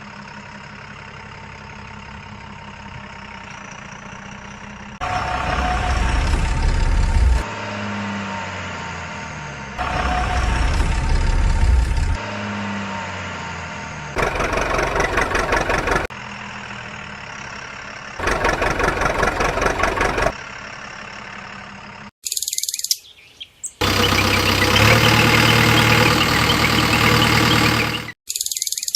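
Engine idling steadily, then revving hard in several bursts of about two seconds each, dropping back to idle between them. A different loud stretch with brief gaps comes near the end.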